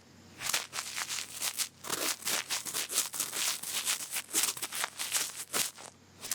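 Cotton bud rubbing and scratching close to the microphone in ear-cleaning ASMR: a dense run of quick, crackly scrapes that thin out near the end.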